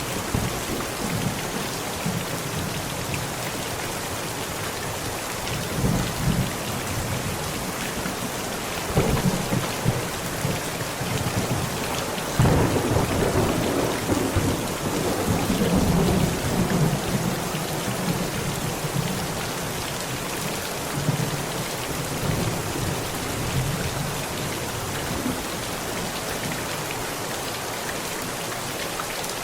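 Heavy rain falling steadily on a tent, with thunder rumbling several times; a sharper clap about twelve seconds in opens a long rolling rumble that fades over the next few seconds.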